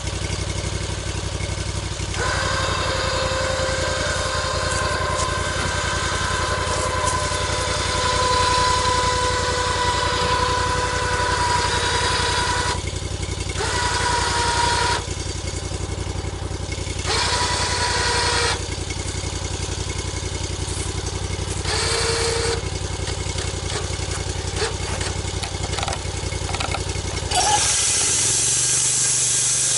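Engine running steadily with a whine that comes and goes over it; near the end the engine rumble stops and a steady hiss takes over.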